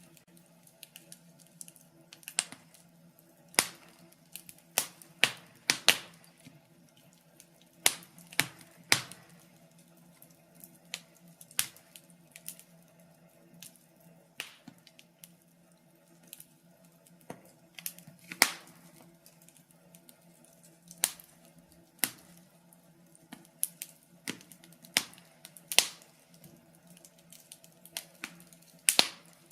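Wood fire burning in a fireplace, crackling with irregular sharp pops and snaps, sometimes several in quick succession, over a faint steady low hum.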